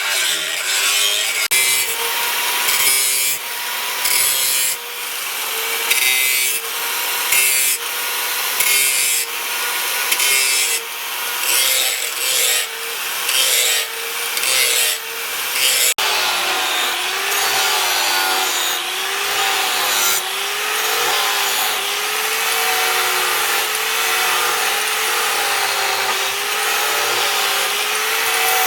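Steel knife blank being worked by hand, with regular scraping strokes about once a second for the first half. About halfway through it changes abruptly to a steady, continuous grinding sound with a wavering pitch.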